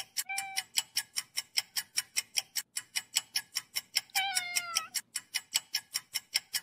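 Domestic cat meowing: a short meow just after the start and a longer meow about four seconds in. A steady clock-like ticking, about four ticks a second, runs underneath.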